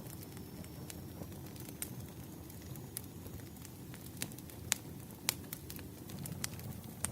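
Wood fire burning: a steady low rumble with scattered sharp crackles and pops from the burning logs, two louder pops a little past the middle.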